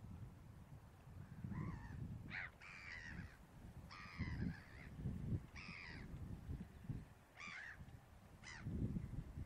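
Birds calling over open mudflats in a string of about seven short calls, some with a bending pitch, with wind gusting on the microphone underneath.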